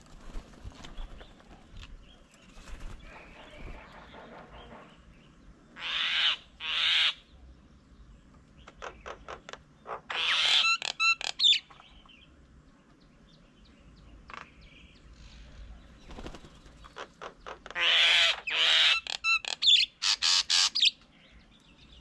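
Birds at a bird table giving harsh, noisy squawks in short bouts: around six seconds in, around ten seconds in, and again from about eighteen seconds, with quick repeated chirping notes mixed into the later bouts.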